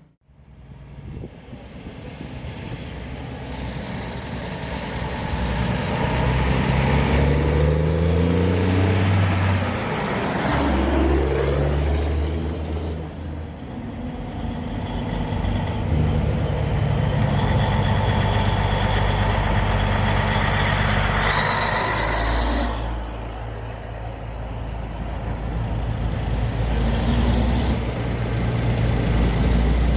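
A truck engine pulling away and accelerating, its pitch rising in steps and then running steadier under load. A short burst of hiss comes about two-thirds of the way through.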